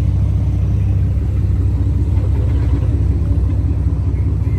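Steady low rumble of car engines idling.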